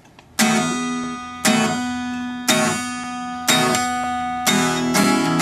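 Acoustic guitar strummed as a song's intro: a chord about once a second, each left to ring, then quicker strumming near the end.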